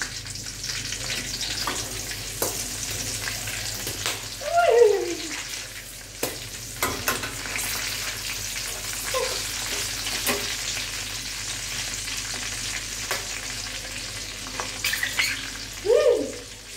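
Tomato halves and chilies sizzling steadily in shallow hot oil in a wok, frying as the base for a sambal. A metal skimmer knocks and scrapes against the pan, with two short, louder falling squeaks about four and a half seconds in and near the end.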